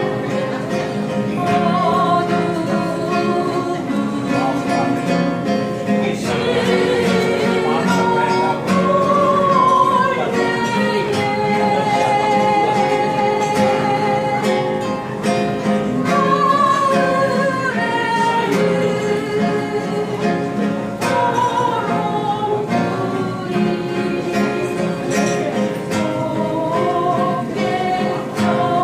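Music: a voice singing a melody with vibrato over plucked guitar accompaniment.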